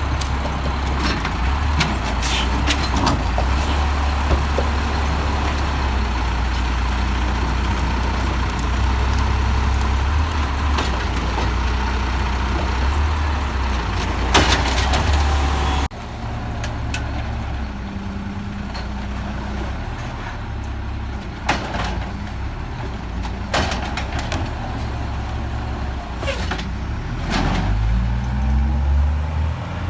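Peterbilt 320 side-loader garbage truck's diesel engine running, with clunks and knocks and a brief hiss about halfway through. The engine revs up near the end.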